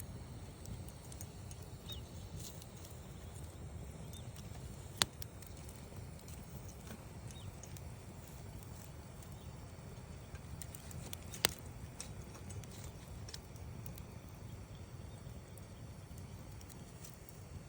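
Wood campfire burning: a steady low rumble of flames with scattered soft crackles, and two sharp pops of the wood, about five seconds in and again some six seconds later.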